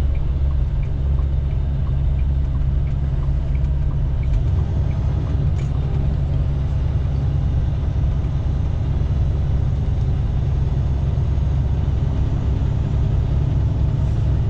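International LT semi truck's diesel engine running with a steady low rumble, heard from inside the cab.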